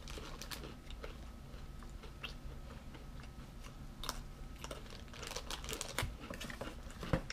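A person biting into and chewing a crunchy cookies-and-cream coated Pepero biscuit stick: scattered small crisp crunches and clicks, coming thicker later on.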